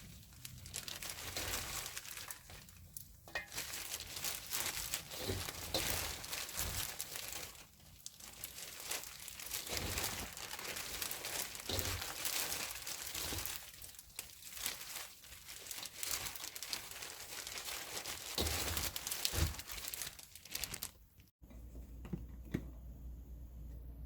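Continuous crinkling and crackling, with short pauses, that cuts off suddenly about 21 seconds in and gives way to a quiet low hum.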